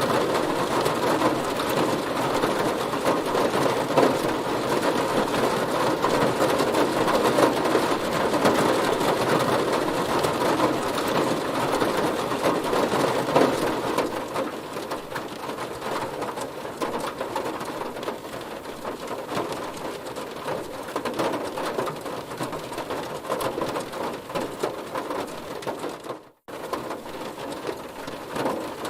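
Heavy rain falling on a car's body, a dense patter of many drops that eases somewhat about halfway through. The sound cuts out for a split second near the end.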